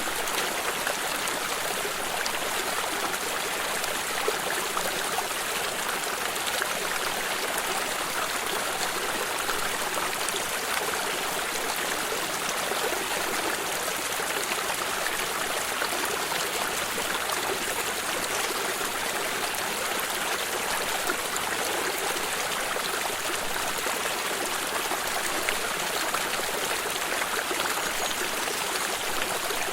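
Small stream flowing over rocks: a steady, even rush of running water with trickling.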